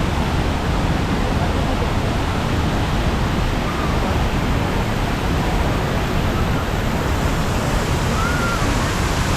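Düden Waterfall's heavy fall of water making a loud, steady rushing noise, close by.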